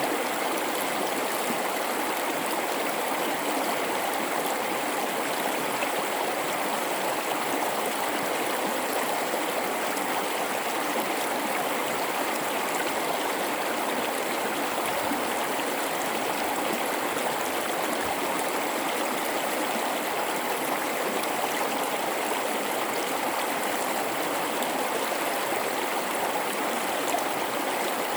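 A river running through a rocky gorge: steady rushing and babbling of flowing water.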